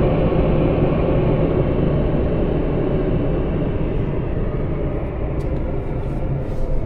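Automatic car wash machinery heard from inside a truck's cab: a loud, steady rushing noise with a low hum that eases off gradually, with a few faint ticks near the end.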